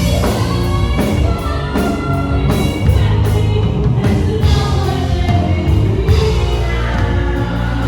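A singer performing a dramatic show-tune ballad over a loud instrumental backing track, amplified through a theatre PA, with sustained notes over a steady beat.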